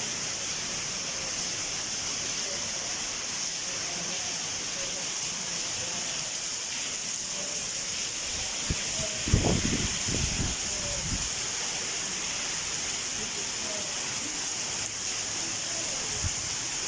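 Heavy rain falling, a steady hiss, with a brief cluster of low thumps a little past halfway through.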